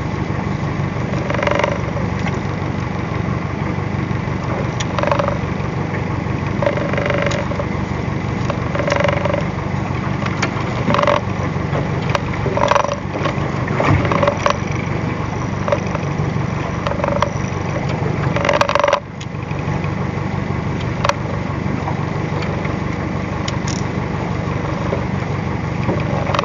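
A boat's engine running steadily, with short knocks every second or two.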